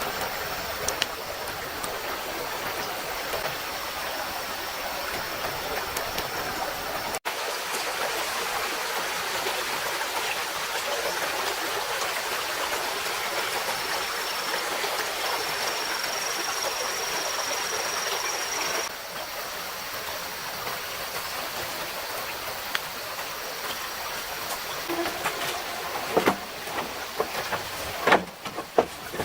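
A mountain stream flowing steadily with a constant rush of water. A few sharp knocks come near the end.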